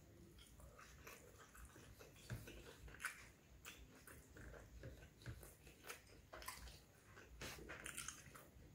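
Chewing and mouth sounds of a person eating plain roti with fish curry by hand, with soft irregular clicks and smacks.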